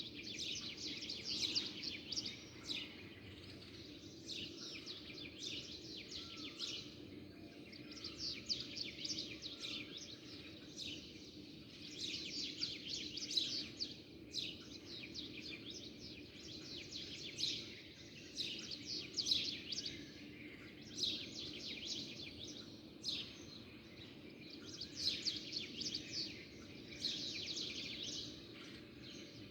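A group of small songbirds chirping and twittering together, in bouts of rapid high chirps every second or two, over a steady low hum.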